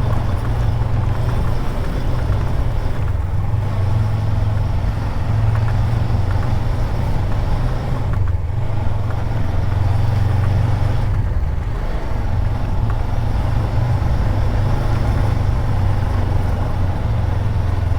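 Suzuki GSX250R's parallel-twin engine running steadily at low revs, a constant low drone with no revving.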